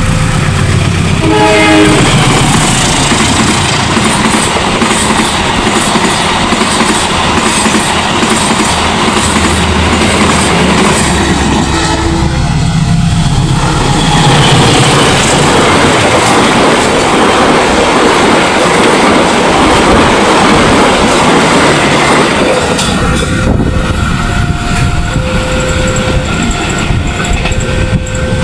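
Passenger trains passing a level crossing at speed, wheels clattering over the rails for about twenty seconds, with a horn blast as the first train arrives. Before and after the passing, the crossing's warning alarm sounds as two alternating tones.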